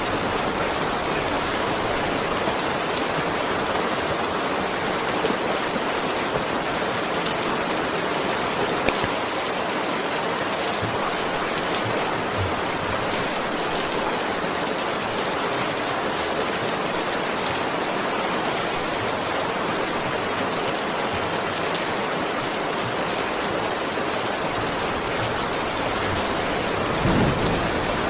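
Heavy rain falling in a steady, even hiss. Near the end there is a brief low rumble.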